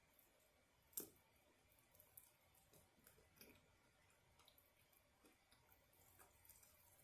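Near silence with faint eating sounds: scattered soft clicks and handling noises, one sharper click about a second in.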